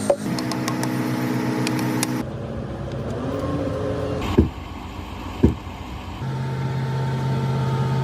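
A motor running steadily with a droning hum whose pitch changes suddenly twice, and two sharp knocks in the middle.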